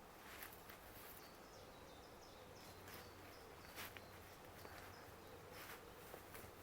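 Near silence: faint woodland ambience with a few soft clicks here and there and a run of short high chirps about two seconds in.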